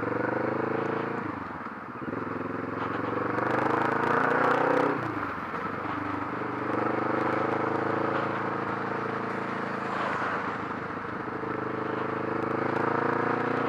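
2015 Kawasaki Vulcan S's 649 cc parallel-twin running through a Delkevic 8-inch mini exhaust with the baffle in, accelerating under way. The revs climb and drop at gear shifts about two seconds in and again about five seconds in, then hold a long steady pull that slowly rises.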